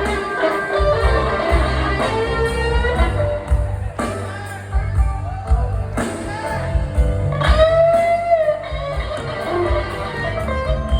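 Electric blues guitar playing bending lead lines over a band's bass and drums, in an instrumental break of a slow blues number.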